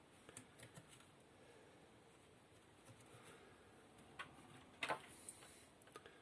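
Near silence with a few faint clicks and rustles of wires and plug connectors being handled, a slightly louder click a little before five seconds in.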